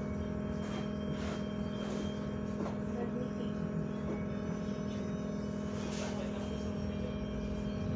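Steady electrical hum and drone of a LiAZ-5280 trolleybus, heard from inside the passenger cabin, with several constant tones held throughout.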